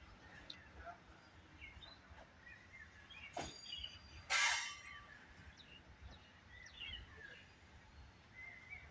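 Outdoor ambience with scattered bird chirps and a short, loud hiss about four seconds in, just after a sharp click.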